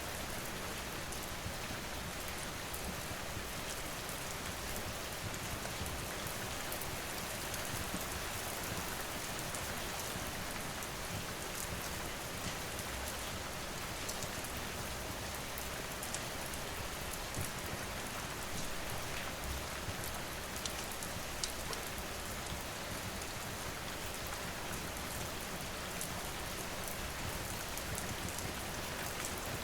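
Steady, even rain falling, with scattered faint sharp ticks.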